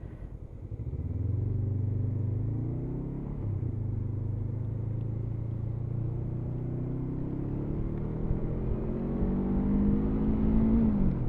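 Motorcycle engine accelerating. It builds from about a second in, with a gear change just after three seconds, then runs steadily and climbs in pitch again near the end before easing off.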